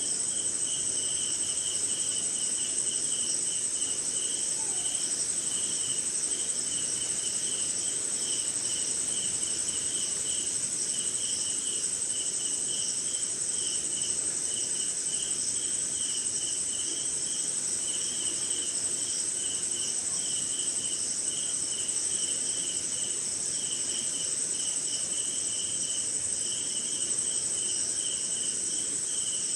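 Night chorus of crickets and other insects: a steady, unbroken high-pitched trill with a second, lower chirping that pulses a few times a second.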